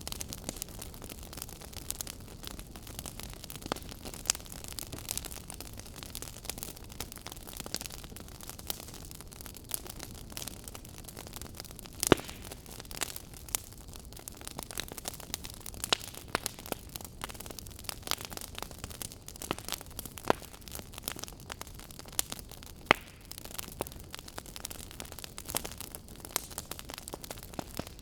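Fireplace fire crackling: frequent sharp pops over a steady hiss, with two louder pops, one about twelve seconds in and one near twenty-three seconds.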